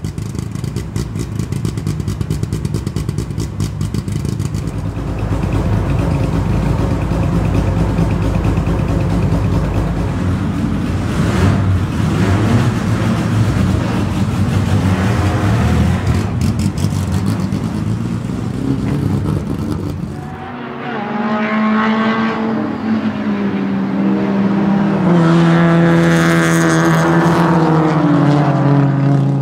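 Lada 2102 race car's four-cylinder engine running and revved in a pit garage. About 20 s in the sound changes to the car out on the circuit, its engine pitch falling steadily as it slows into a corner and rising again briefly near the end.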